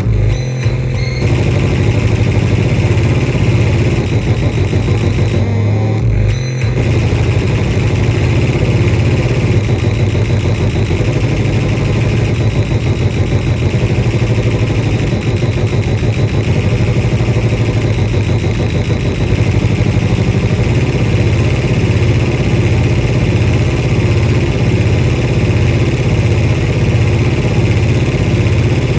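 Modular synthesizer patch: a Landscape Noon triggered by a Make Noise 0-Ctrl sequencer, which is clocked by the Soma Pulsar-23's chaos output, and distorted through an Oto Baum. It makes a loud, dense, fast-pulsing low buzz, like an engine, that briefly thins out about six seconds in.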